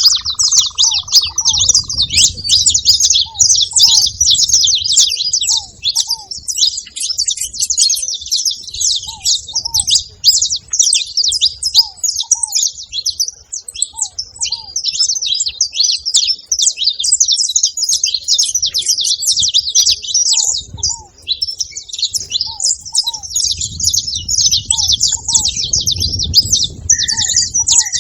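Saffron finches chirping and twittering without pause in a dense, high chatter. Fainter, lower short notes repeat underneath, and a brief whistle comes in near the end.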